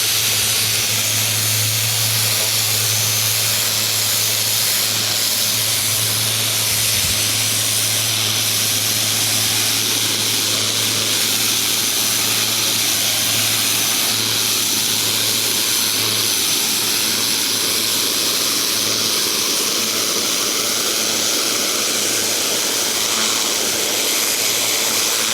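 Ryobi 2000 PSI electric pressure washer running steadily, its motor humming under the loud hiss of the water jet spraying against the fence.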